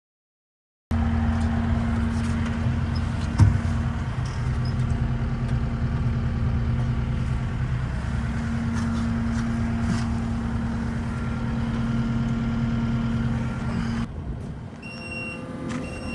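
Skid steer's diesel engine running steadily, with a sharp knock about three seconds in. Near the end the engine sound drops and a high beeping starts, about once a second.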